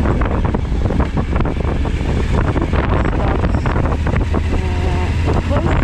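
Wind buffeting the microphone of a riding motorcycle, with the low, steady drone of the Suzuki V-Strom 1000XT's V-twin engine underneath.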